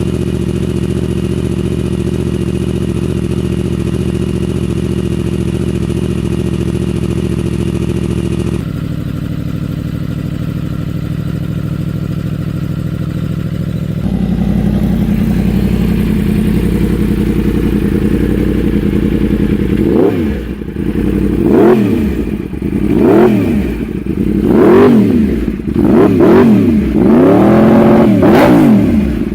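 Yamaha R1 inline-four engines through aftermarket exhausts, idling steadily in three back-to-back clips that change about 9 and 14 seconds in. From about 20 seconds the throttle is blipped repeatedly, the revs shooting up and dropping back about seven times, loud and sharp.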